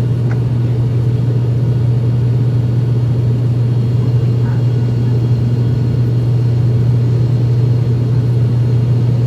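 ATR 72-600 turboprop's engines and propellers droning steadily, heard inside the cabin after takeoff: a strong, even low hum that holds without change.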